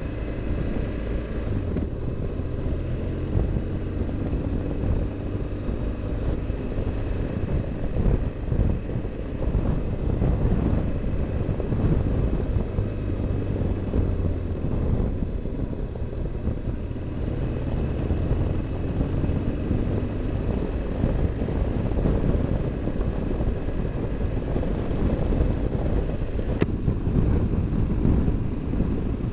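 BMW R1200GS Adventure's flat-twin engine running steadily on the road, with wind and road noise.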